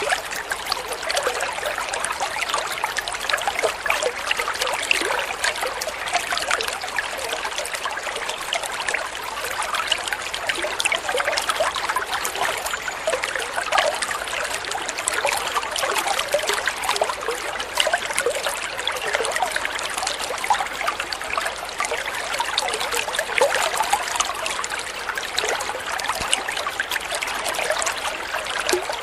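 Flowing water trickling and splashing without pause: an even rush dotted with many small splashes.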